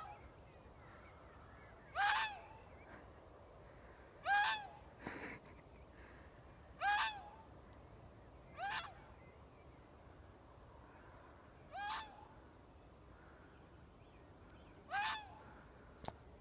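Fox calling: six short, hoarse barks, one every two to three seconds.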